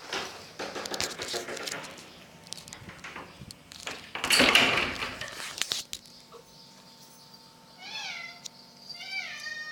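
A cat meowing, two short calls that fall in pitch near the end. Before them come noisy rustling and scuffling, with a loud burst of it about four to five seconds in.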